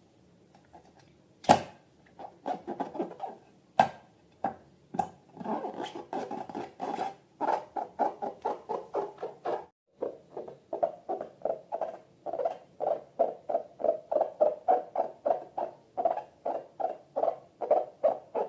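Slime being squeezed and kneaded by hand, a run of rhythmic sticky squelches about two to three a second, broken by a couple of sharp snaps in the first few seconds and a brief pause midway.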